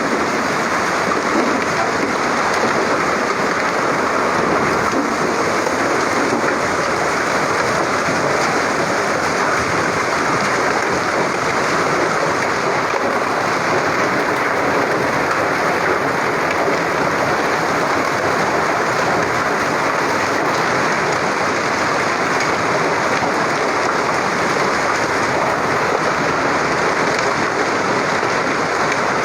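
Heavy rain mixed with hail falling, a steady, dense patter with no letting up.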